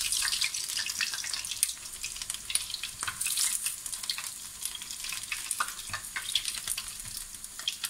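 Battered acacia-flower fritters sizzling and crackling in hot oil in a frying pan, with many small pops, as a slotted spoon turns them.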